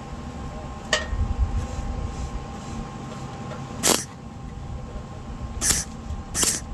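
Short bursts of tack welding on thin sheet-steel battery tray metal: four brief crackling bursts a second or two apart, over a steady hum. The metal is thinner than expected, so tacks tend to blow through.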